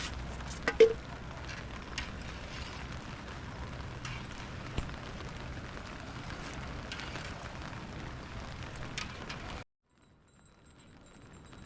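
Steady hiss of rain falling, with scattered sharp crackles and pops from a wood cooking fire, one loud pop about a second in. The sound cuts off suddenly near the end.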